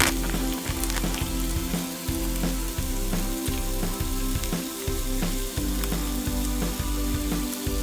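Food sizzling and crackling as it fries in a pan, with background music that has a steady beat underneath.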